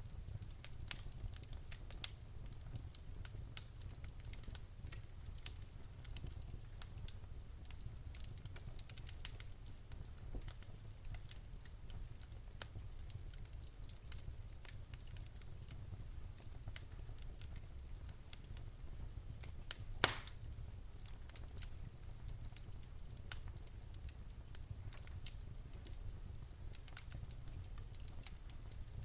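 Wood fire burning in a fireplace: a steady low rumble of flames with irregular crackles and small pops from the burning logs, one louder pop about twenty seconds in.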